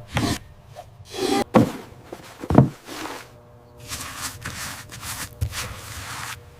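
Cartoon sound effects: a string of separate thuds and knocks, the sharpest in the first three seconds, then softer noises.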